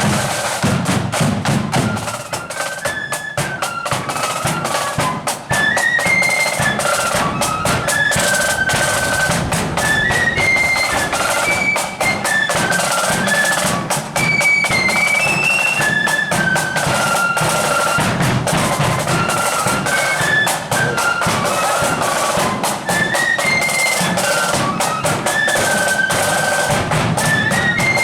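Marching flute band playing a tune: high flutes carry a stepping melody over rapid snare-drum rolls and a steady bass drum beat.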